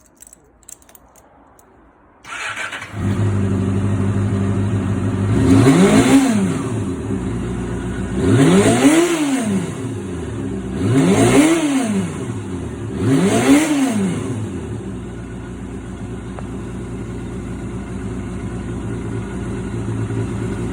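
Kawasaki Balius 250 inline-four with a Moriwaki aftermarket exhaust starting up about two seconds in, after a few faint clicks, and settling straight into a steady idle. It is blipped four times, each a quick rise and fall in pitch, then idles evenly.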